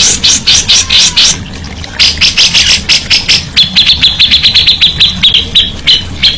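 Songbird singing: several quick runs of sharp repeated chirps, then about halfway through a faster, steady trill of clipped notes at one pitch.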